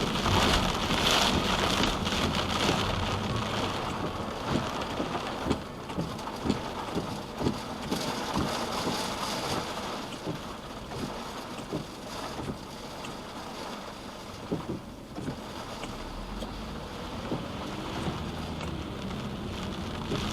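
Rain on a moving car, a steady hiss of rain and road noise, with scattered sharp taps through the middle.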